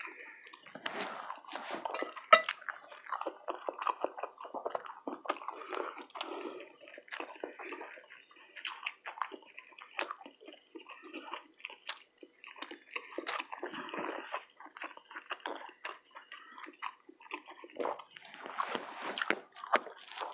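A person chewing and eating a whiting fish, grits and toast breakfast close to the microphone: a steady run of small mouth clicks and wet smacks, busier near the end.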